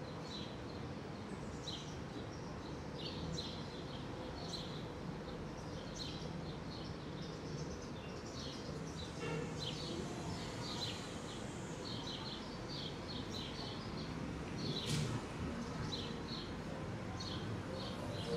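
Small birds chirping in short, quick, high calls repeated throughout, over a steady city hum of traffic and machinery.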